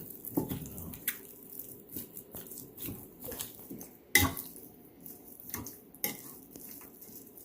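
Raw chicken wings being stirred and tossed in a bowl to coat them in baking powder: irregular clinks and knocks of the utensil against the bowl with soft wet squishing, the loudest knock about four seconds in.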